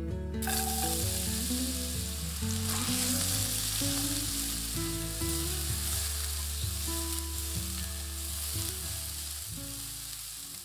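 Julienned potato strips hitting hot oil in a frying pan: a sizzle starts suddenly about half a second in, then the potatoes fry steadily while a spatula stirs them.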